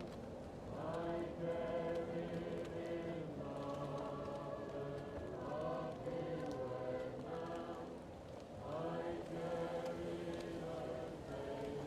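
A choir singing slow, sustained chords in phrases, muffled as if heard from another room, with a new phrase starting about a second in and another near nine seconds. A wood fire crackles faintly underneath with scattered small pops.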